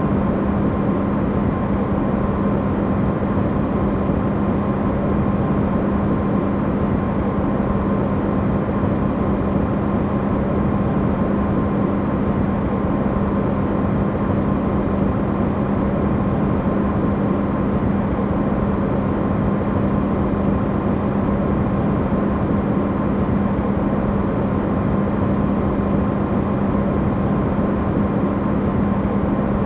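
Electrolux refrigerator running, recorded amplified: a steady hum with a low tone over even, rushing noise, unchanging throughout.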